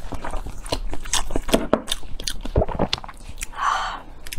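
Close-up chewing and biting of a large chili-coated blood sausage in pig-intestine casing, with many short irregular mouth clicks.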